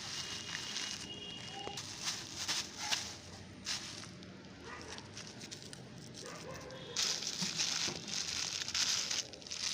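Plastic bag and plastic rubbish crinkling and crackling as garbage is stuffed into the bag, a dense run of small sharp crackles that gets louder about seven seconds in.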